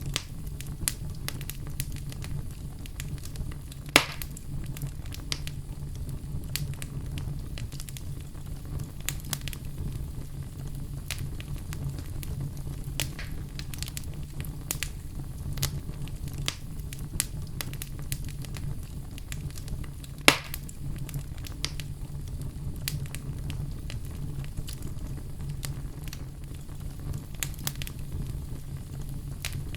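Wood fire crackling in a fireplace: a steady low rumble under frequent small snaps, with two louder pops, one about four seconds in and one about twenty seconds in.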